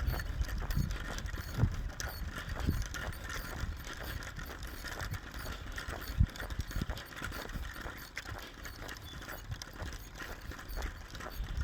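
Footsteps walking steadily along a path, about one step a second, with the mechanical clicking of a distance-measuring wheel rolled alongside.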